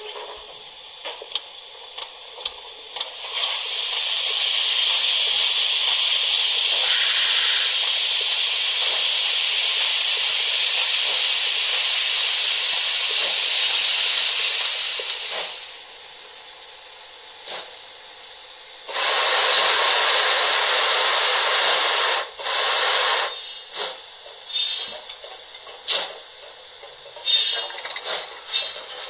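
Sampled steam-locomotive hiss from an ESU LokSound 5 sound decoder, played through a model locomotive's small speaker so it sounds thin with no bass: a long steady hiss of about twelve seconds, a second hiss of about three seconds a little later, then several short hisses and clicks.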